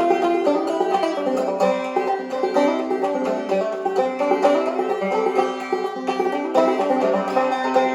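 Banjo played clawhammer style: an old-time fiddle tune in a steady, unbroken stream of plucked notes.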